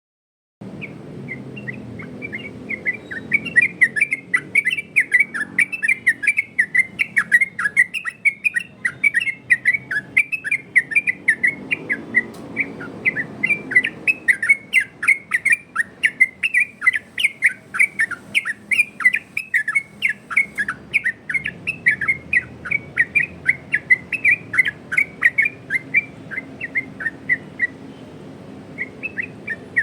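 Yellow-vented bulbul (trucukan) singing a rapid, unbroken run of short chirping notes, several a second, pausing briefly near the end.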